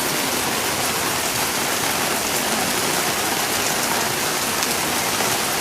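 Heavy rain falling steadily in a thunderstorm downpour, an even hiss of rain hitting the ground.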